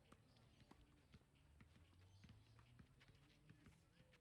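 Near silence, with faint scattered clicks and ticks and a few soft chirps.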